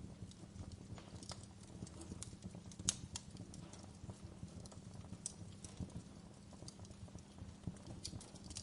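Wood fire burning in a fireplace: a low steady rumble with irregular crackles and small pops, the loudest sharp pop about three seconds in.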